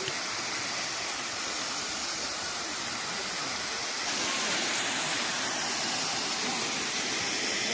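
Waterfall rushing: a steady, even wash of falling water that grows a little louder about halfway through.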